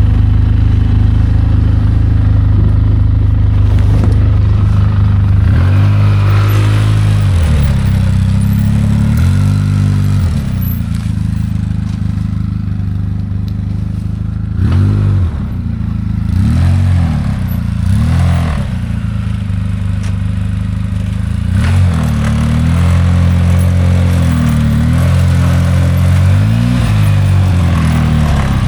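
ATV engine running, its pitch rising and falling as the throttle opens and closes in repeated surges, steadier in between.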